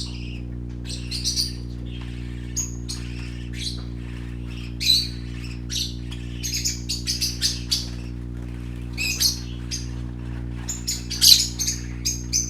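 Parakeets chirping and squawking in quick, uneven clusters of short, high calls, loudest about eleven seconds in. A steady low hum runs underneath.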